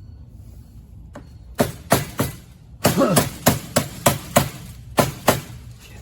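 Hammer blows on the Sun Baja trike's rear axle, driving it and its key through the keyway. About a dozen sharp, ringing strikes come roughly three a second, starting about a second and a half in.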